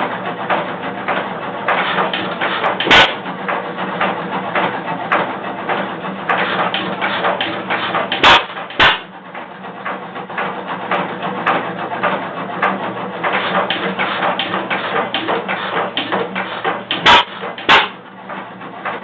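1914 Associated 4 hp hit-and-miss gas engine running with a rapid, continuous mechanical clatter and a low hum, punctuated by a few sharp loud bangs: one about three seconds in, a pair near the middle and another pair near the end. The bangs are the engine firing only now and then as it is coaxed into running after a hard start.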